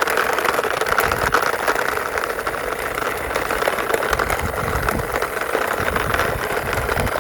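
Small toy ambulance pushed by hand, its wheels rolling along a wall: a steady rolling whir.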